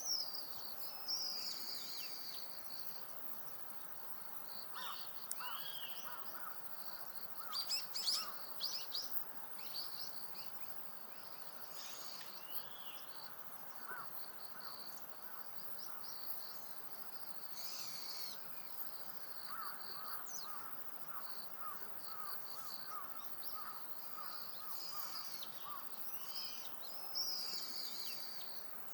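Wild birds calling: high chattering and chirping notes, with a loud burst of harsh calls about eight seconds in and a run of short, evenly repeated lower notes from about twenty seconds in.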